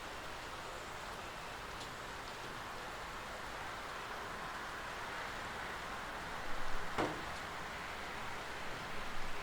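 Steady rain falling, an even hiss with a few faint drip ticks, and one sharper, louder tap about seven seconds in.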